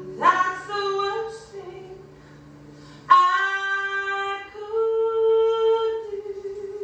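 A woman singing a slow ballad with a small live band and guitar: two phrases, each sliding up into its note, the second loud and held for a couple of seconds.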